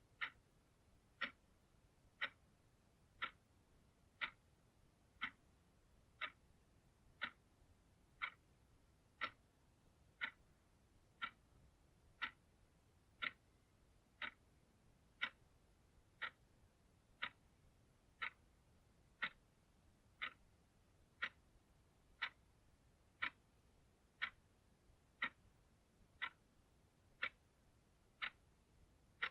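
Analog clock ticking steadily, about one tick a second, each tick a short sharp click over a very quiet background.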